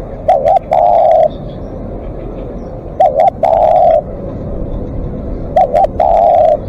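Spotted dove, a live decoy bird, calling: three phrases about 2.7 seconds apart, each two quick coos followed by one long drawn-out coo.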